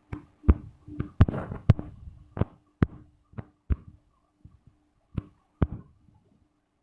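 Irregular sharp taps of a finger or stylus on a tablet's touchscreen while drawing, about a dozen knocks over a faint steady hum, thickest in the first three seconds.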